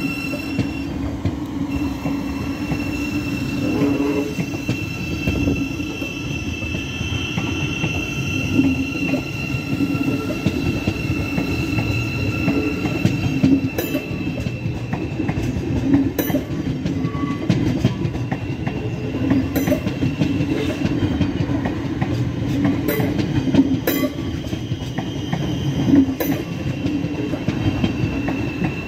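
Thameslink Class 700 electric multiple unit passing close by: a steady rumble of wheels on rail with a thin, high, steady tone above it. From about halfway through, sharp clicks come irregularly as the wheels cross rail joints.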